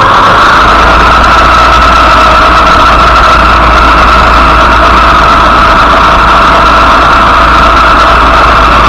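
Motorcycle engine running at a steady pace, loud and close, its pitch holding nearly level.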